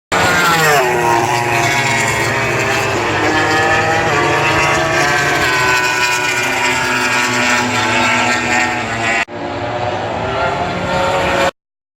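MotoGP racing motorcycles' four-cylinder engines at full throttle passing at top speed, over 320 km/h, several bikes one after another, with the pitch dropping sharply as one goes by. The sound cuts off abruptly about nine seconds in, resumes briefly, then stops dead.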